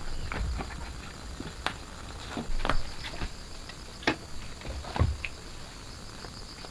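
Steady high-pitched insect drone, with about eight irregular light clicks and knocks scattered through it.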